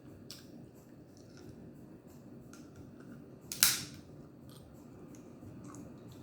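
Crab shell being cracked and snapped apart by hand: scattered light clicks and snaps, with one sharp, loud crack about three and a half seconds in.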